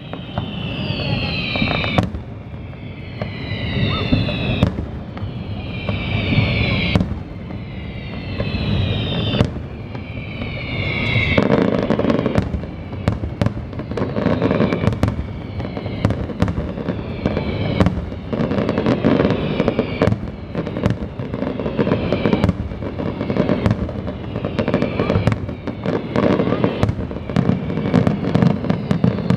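Fireworks display: for the first ten seconds or so, a burst every couple of seconds, each trailed by several falling whistles. About eleven seconds in it turns into a rapid, continuous barrage of bangs and crackling.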